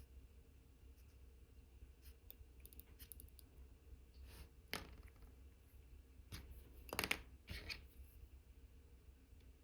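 Faint clicks and light scrapes of watchmaker's tools handling small metal parts of a watch movement during assembly. A louder cluster of clicks comes about seven seconds in, over a steady low hum.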